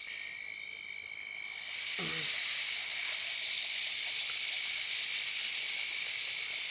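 Puri deep-frying in hot oil, sizzling with small crackles that grow louder about two seconds in; crickets trill steadily behind it.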